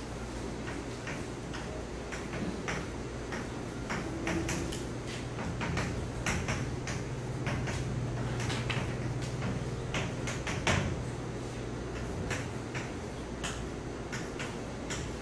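Writing on a board: irregular taps and short scratches as the strokes are made, over a steady low hum.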